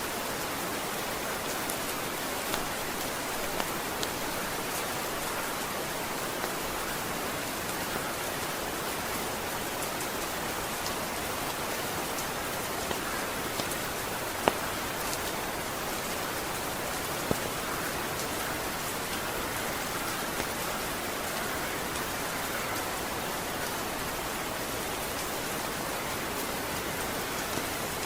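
Steady rain, with occasional sharp ticks, the loudest about halfway through.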